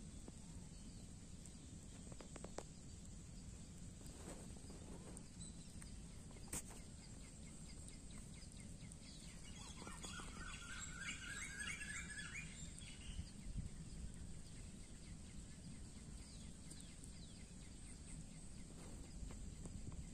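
Faint outdoor field ambience: a steady low rumble, with a bird chirping in a quick run of notes about ten seconds in and a couple of faint clicks earlier.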